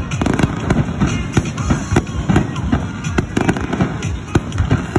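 Aerial fireworks going off in quick succession: many sharp bangs, several a second, over a continuous low rumble of overlapping explosions.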